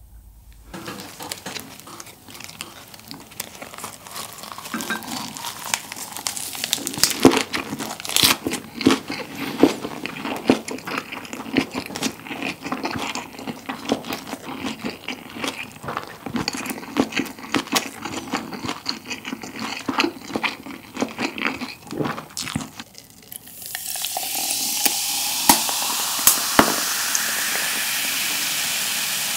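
Close-up chewing of a lettuce wrap (ssam) of grilled Iberico bellota pork, rice and lettuce: a long run of wet, crisp crackles and clicks from the springy pork fat. About 23 seconds in, carbonated soda is poured into a glass and fizzes with a steady hiss.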